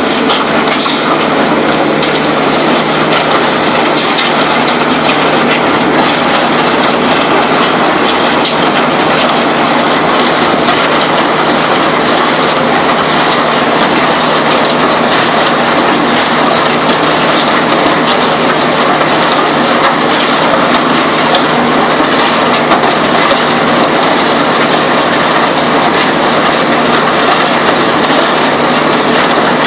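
Concrete batching plant running, its mixer churning with a loud, steady mechanical rattle and a few sharp knocks in the first nine seconds.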